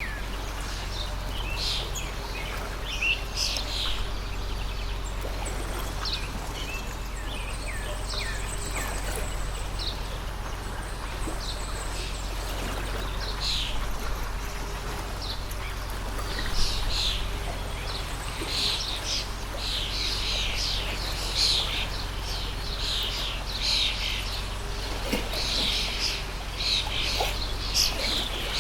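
Birds chirping and calling over a steady rush of flowing stream water. The short chirps come more often in the second half.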